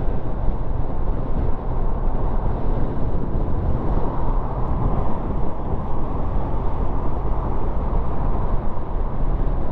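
Steady wind and road noise of a Kawasaki motorcycle riding at speed, with the engine running underneath as a low, even hum.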